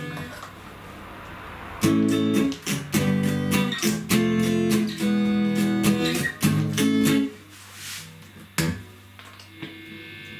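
Guitar strummed through a Fender tube guitar amp, a run of chords from about two seconds in to about seven, then one more chord near the end. It is a play test of the amp after its filter capacitors were replaced to cure distortion.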